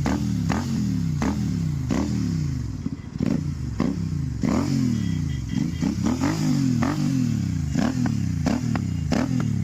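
Royal Enfield Continental GT motorcycle engine revved in quick repeated throttle blips through a loud exhaust, the pitch dropping after each blip, with a sharp crack at each one, a dozen or more times.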